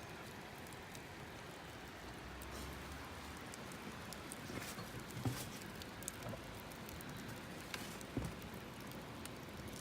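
Steady rushing of a nearby river, with a few faint scattered clicks and taps.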